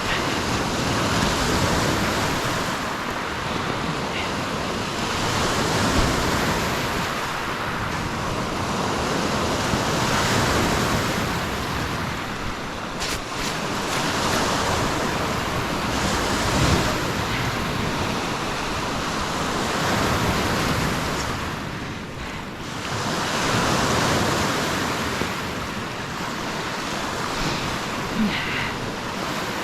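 Lake Superior waves breaking and washing up on the shore, swelling and falling back every few seconds.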